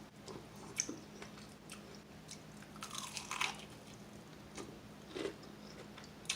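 Close-miked eating of crispy fried chicken wings: irregular crunching bites and chewing, with a denser run of crunching about three seconds in.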